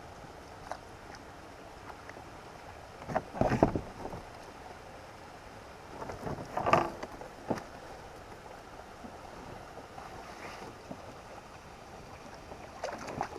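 Knocks and splashes from handling gear on a fishing kayak, with two short louder clusters about three and a half and seven seconds in and another near the end. Steady wind and water noise sit beneath them.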